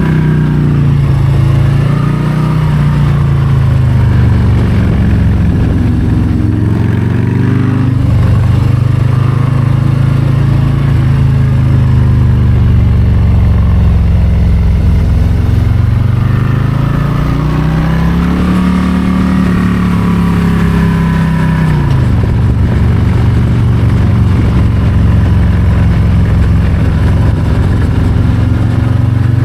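2022 Harley-Davidson Low Rider ST's Milwaukee-Eight 117 V-twin under way, its pitch rising and falling as the throttle is rolled on and off. About two-thirds of the way in the revs climb, then drop off sharply and settle low and steady.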